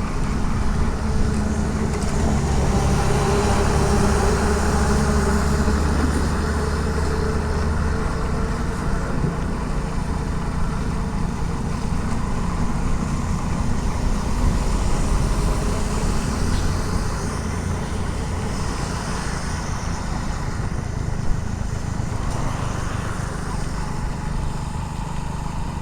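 Motorcycle engine running steadily while riding, with wind and road noise on a helmet-mounted action camera in rain. A single brief knock about three-quarters of the way through.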